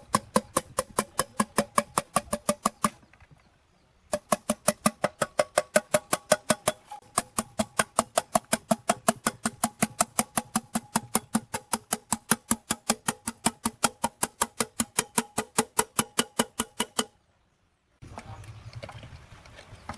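Metal being struck with a hammer in a fast, even rhythm, about four to five ringing blows a second, broken twice by brief silent cuts; a quieter, rougher scraping noise follows near the end.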